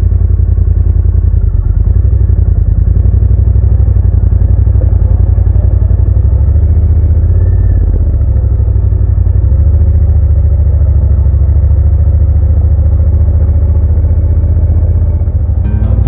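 Motorcycle engine idling steadily with an even low pulse.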